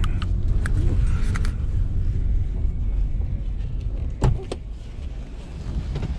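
Car running with a steady low engine and road rumble, with a few light clicks early and one sharp knock about four seconds in.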